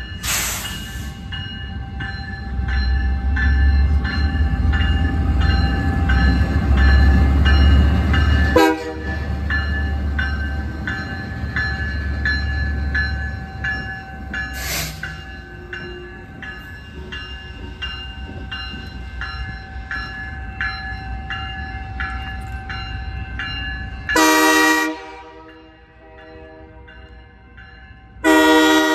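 Diesel switching locomotive working under load, its engine rumbling heavily for the first half and then easing. Its bell rings steadily, about two strokes a second. Brief hissing bursts come near the start and the middle, and two short horn blasts sound near the end.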